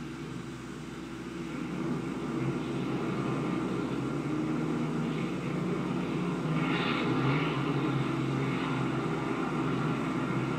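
Propeller engines of a twin-engine airliner running steadily as it taxis after landing, getting louder about two seconds in.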